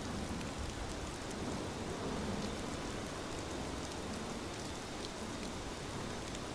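Steady rain falling, an even hiss with scattered drop ticks and no thunder.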